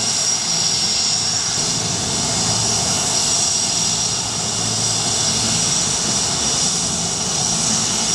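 Aircraft engines running steadily at an airshow, a constant rushing noise with a high steady whine on top.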